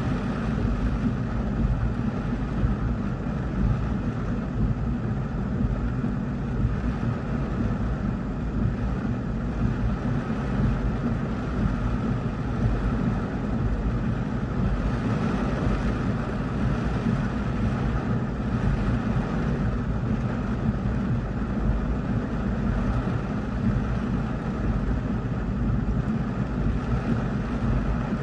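Heavy rain pelting a car's roof and windshield, heard from inside the cabin as a steady, unbroken wash of noise with a low rumble beneath it.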